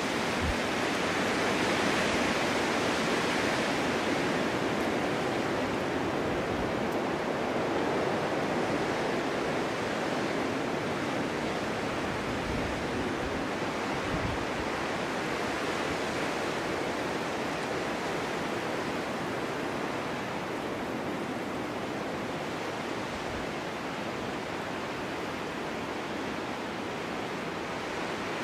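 Snowstorm wind blowing steadily, a broad rushing hiss that swells a couple of seconds in and then slowly eases.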